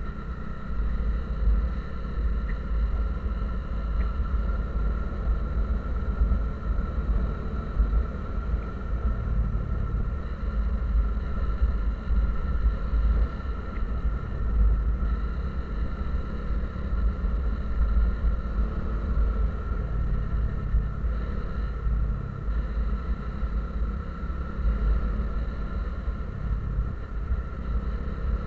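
Steady low rumble of a moving vehicle's engine and road noise, running evenly without change.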